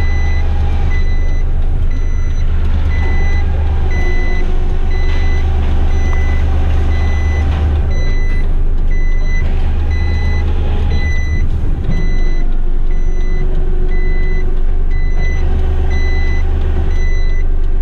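Heavy rigid truck reversing: its reversing alarm beeps evenly, a little more than once a second, over the steady low running of the truck's engine.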